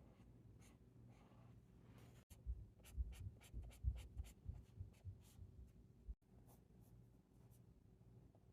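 Ohuhu alcohol marker scratching across sketchbook paper in a quick run of short strokes, about four a second, for a few seconds in the middle. The strokes start and stop abruptly, with faint quiet either side.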